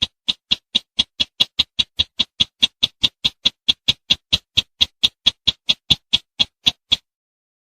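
Recorded call of the sintar semak bush bird, played as a hunting lure: a rapid run of short, sharp, evenly spaced notes, about four a second, that stops about seven seconds in, followed by one more note near the end.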